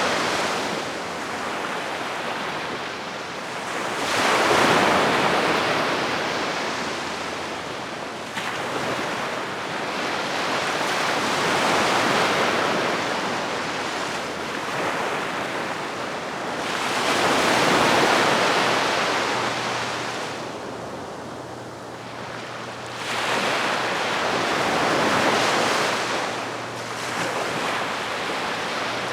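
Calm sea waves washing onto the shore, the surf swelling and fading every few seconds.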